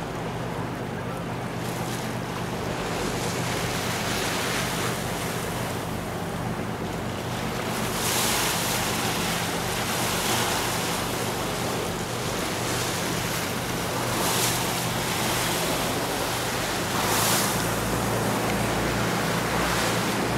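A tour boat's engine running steadily under a rush of wind and water along the hull, the wash swelling every few seconds.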